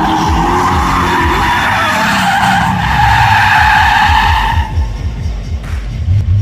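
Drift car's tyres squealing through a long slide over the engine running hard at high revs. The squeal stops about four and a half seconds in, leaving the engine revving and dropping.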